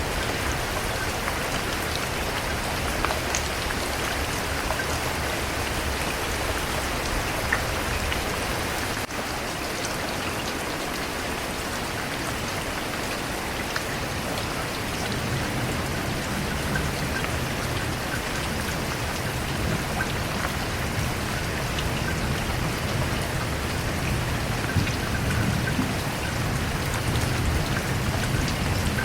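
Steady rain falling and pattering on a surface, with scattered individual drop ticks. A low rumble builds through the second half and swells near the end.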